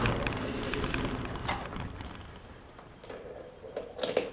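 A loud metallic clunk of a worked metal part being set down, fading over about two seconds, then a single click and a few light metal taps and clinks near the end.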